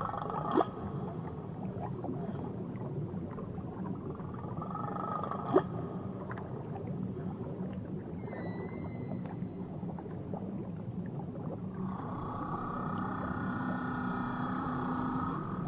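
Whale song underwater: long held calls in phrases, with a higher wavering call about halfway through and two sharp clicks in the first half, over a steady low underwater rumble.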